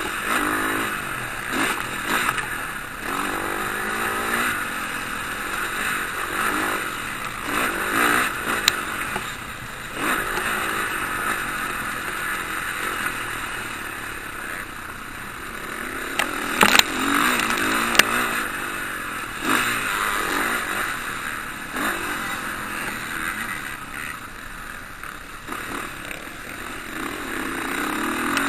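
Motocross bikes racing on the track, engines revving up and dropping off again and again as riders pass and shift. A couple of sharp knocks about two-thirds of the way through.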